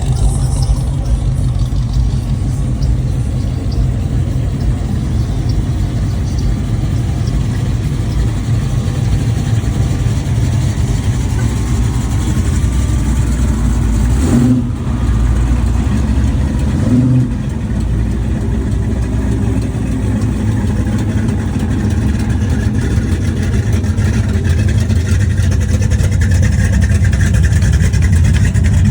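Car engines running steadily, a low rumble with small rises and falls in level.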